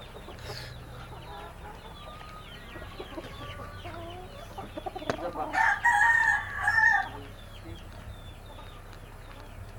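A flock of chickens clucking, with one rooster crowing about five and a half seconds in, a single call of about a second and a half.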